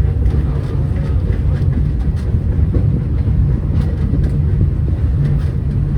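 Walt Disney World Railroad steam train running along the track, heard from aboard a passenger car: a steady low rumble with faint scattered clicks.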